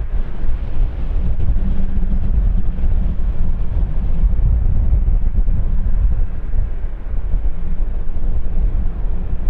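Steady low rumble of jet airliner engines, even in level throughout.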